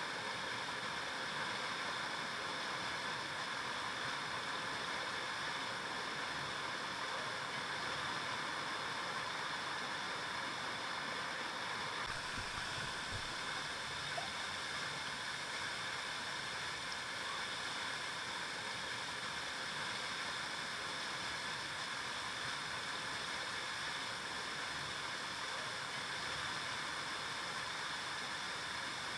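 River water flowing and gurgling over rocks, a steady rushing with no breaks.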